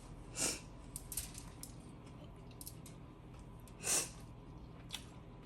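Close-up eating sounds from a person chewing a sandwich: two short hissy mouth or nose sounds about three and a half seconds apart, with a few faint mouth clicks between.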